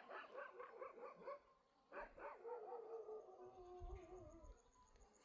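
A dog whining: a quick run of short, high yelps, then a long, falling whine about two seconds in.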